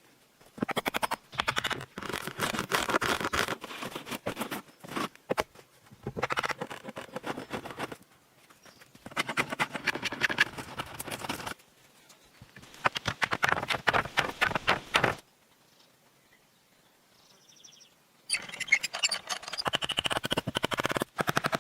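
Bursts of rapid, scratchy scraping, each lasting a few seconds with short pauses between, and a longer pause near the end.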